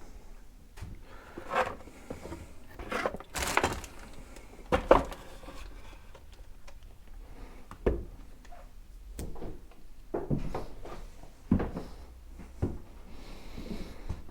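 Irregular clunks, knocks and short scrapes of motorcycle front-end parts being handled and fitted by hand, the loudest knock about five seconds in.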